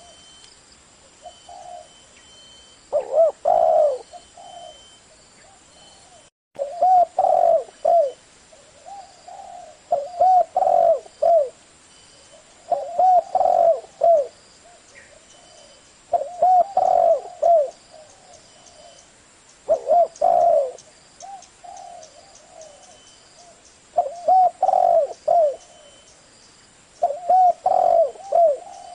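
Spotted dove cooing in the 'thổ' voice, a lure call for wild doves. Short phrases of a few low, rounded coos repeat about every three to four seconds, with softer coos in between.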